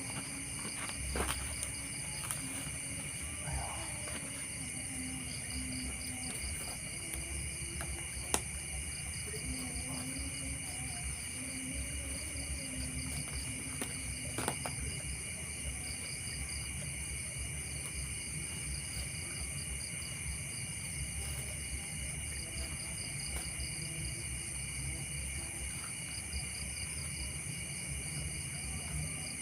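Night insect chorus: crickets trilling steadily in several high, even bands, one of them pulsing fast. A few faint sharp clicks come through, the clearest about eight seconds in.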